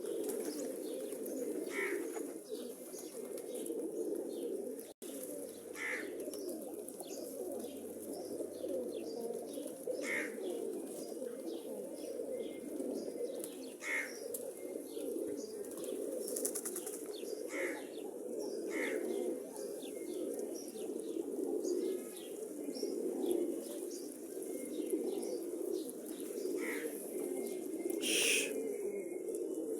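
A group of pigeons cooing continuously in a dense, overlapping chorus, with short sharper sounds standing out about every four seconds.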